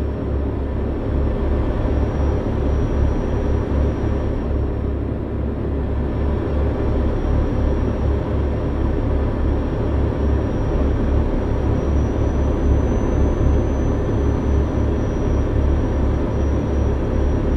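Truck running at a steady pace: a continuous deep, even engine-and-road rumble with a faint thin high whine over it.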